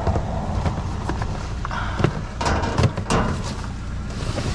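Trash being rummaged through by hand: a few sharp knocks and clatters of items being moved, with some rustling, over a steady low vehicle rumble.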